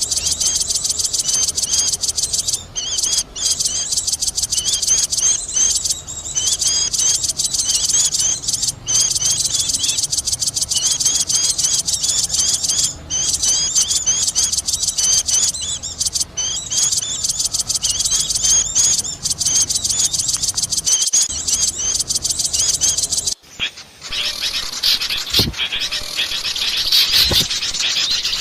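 A recorded chorus of many small birds chirping and chattering rapidly and noisily, played as a bird-trapping lure call. About 23 seconds in it cuts to a different, busier stretch of chirping.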